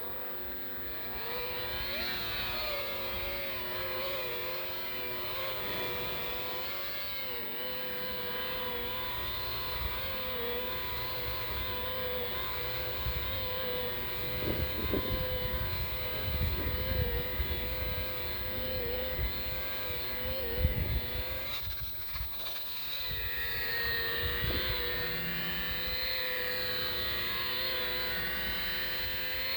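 Dewalt DWP849X rotary buffer running, a steady motor whine that wavers slightly in pitch as the pad works compound into the boat's gelcoat. It stops briefly about two thirds of the way through, then spins up and runs again. Gusts of wind rumble on the microphone partway through.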